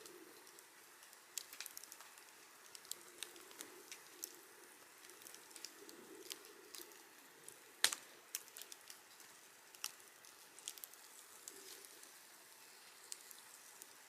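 Wood campfire crackling, with scattered sharp pops and one much louder pop about eight seconds in, over a soft low hiss.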